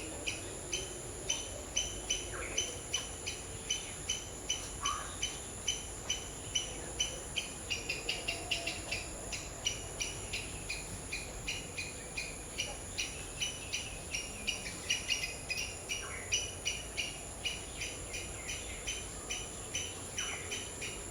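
Tropical backyard ambience: a steady high-pitched insect drone under a fast, even series of short chirps, two or three a second, with a few lower single notes now and then.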